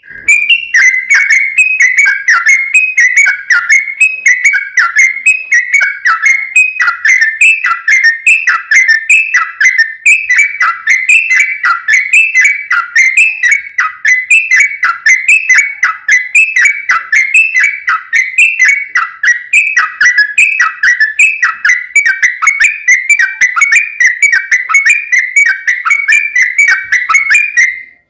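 Yellow-vented bulbul (trucukan) singing a long, unbroken run of loud, rapid chattering notes, each sliding down in pitch, about two to three a second. It is the long-phrase song used as a lure to set other bulbuls singing.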